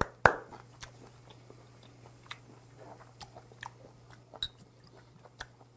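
Close-miked chewing of a mouthful of boiled webfoot octopus, wet mouth clicks and smacks scattered through, the sharpest about a quarter second in. A low steady hum runs underneath.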